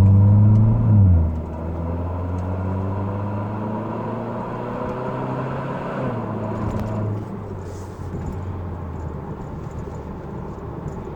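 Kia Stinger 2.0 turbo four-cylinder's low exhaust rumble through an NGM Delta axle-back, heard inside the cabin while driving. The engine rises in pitch under acceleration, drops at a gear change about a second in and again about six seconds in, then runs steadier and a little quieter.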